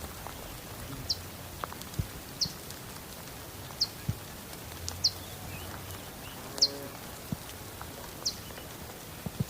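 A bird repeats a short, high, falling chirp six times, about once every second and a half, over a steady background hiss. A cow moos faintly about two-thirds of the way through.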